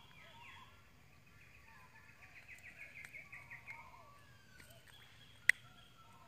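Birds calling, with a run of about a dozen quick repeated chirps from about two seconds in, lasting about two seconds. A single sharp click about five and a half seconds in is the loudest sound.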